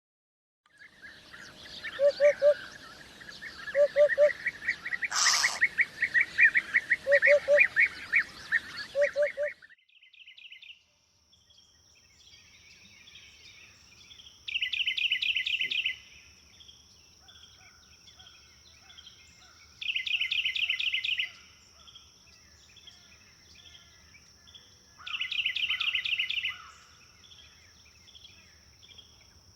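Eurasian hoopoe calling its low 'hoop-hoop' in groups of two or three, about every two seconds, over the busy chirping of other birds. About ten seconds in this gives way to a steady high insect-like buzz, with a rapid high trill every five or six seconds.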